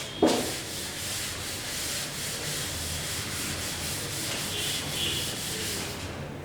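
Writing on a classroom board: a sharp tap about a quarter second in, then steady scratching and rubbing strokes, with a faint squeak of the pen or chalk near the end.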